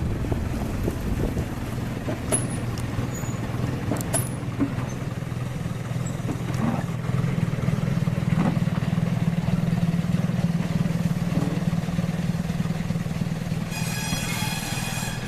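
Steady low drone of a running engine, with a couple of sharp clicks a few seconds in and a brief high-pitched ringing tone near the end.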